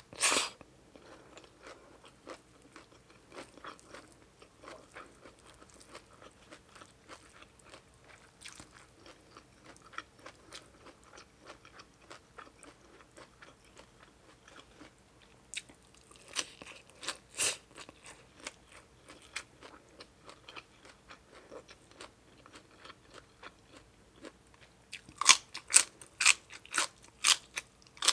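Close-miked chewing and biting of crunchy food, a mouthful of spicy seafood papaya salad. Soft, steady chewing is broken by a few louder crunchy bites around the middle and a quick run of sharp crunches near the end.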